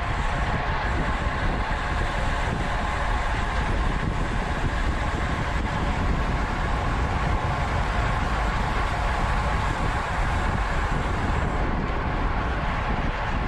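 Steady wind rushing over a bike-mounted camera's microphone, mixed with the running noise of a road bicycle's tyres and drivetrain at racing speed.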